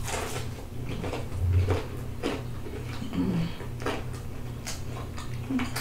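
Close-up chewing of a bite of fried fish: a few short crunches and mouth clicks, about one a second, over a low steady hum.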